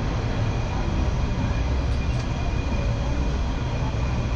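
Diesel rail vehicle running through a tunnel: a steady, even low rumble of engine and wheels on the rails.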